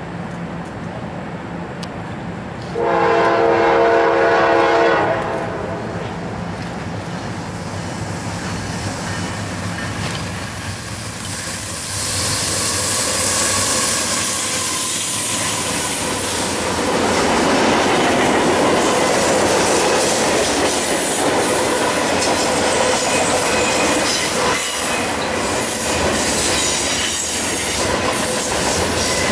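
Norfolk Southern manifest freight train: a horn blast of about two seconds, a few seconds in, as it approaches. Then the diesel locomotives pass with a loud, rising rush from about twelve seconds in, followed by freight cars rolling by with steady wheel squeal and the clickety-clack of wheels over the rails.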